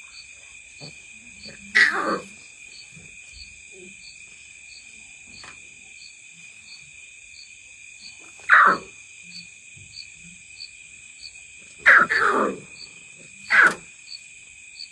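Lion cubs calling: four short cries, each sliding down in pitch, the one about twelve seconds in the longest, over a steady chirring insect chorus.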